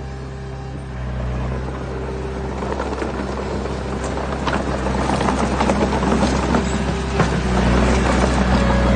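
Heavy diesel machinery engine running steadily. From about three seconds in, a growing clatter and rattle of stones builds up and grows louder toward the end.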